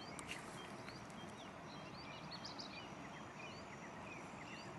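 Faint birdsong: many short chirps and small whistles from several birds over a steady background hiss.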